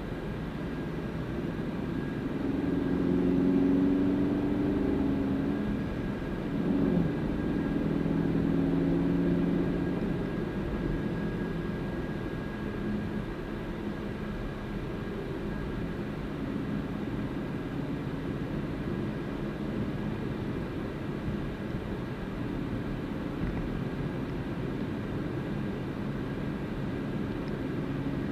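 A car being driven: steady engine and road noise, with the engine note louder and shifting in pitch between about two and ten seconds in, then settling into a steady cruise.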